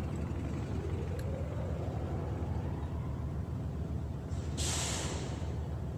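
An engine running with a low, steady rumble, its pitch rising slowly over the first three seconds. A short burst of hiss comes about four and a half seconds in and lasts about a second.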